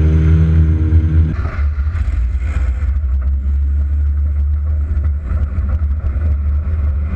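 Loud demolition-derby car engine running at a steady pitch. About a second in, the sound changes abruptly to a rougher, noisier low rumble.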